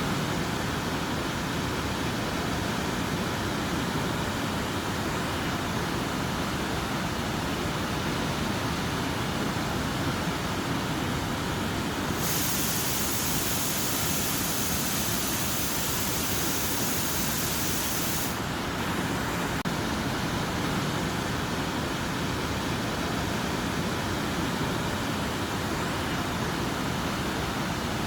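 Steady rain, an even hiss with no breaks, which turns brighter and hissier for about six seconds in the middle.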